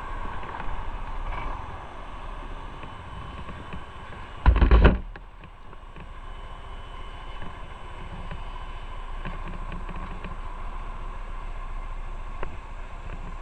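Motorcycle on the move: steady engine and road-wind noise, broken by one very loud burst lasting about half a second about four and a half seconds in.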